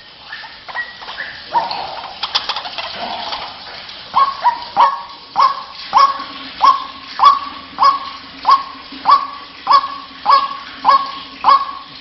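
White-breasted waterhen (ruak-ruak) calling. Scattered calls give way about four seconds in to a steady run of repeated calls, about one and a half a second.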